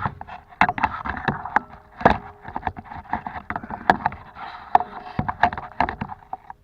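Close rustling broken by many sharp, irregular clicks and knocks, the handling sounds of oyster mushrooms being picked off a tree from a canoe. It cuts off suddenly near the end.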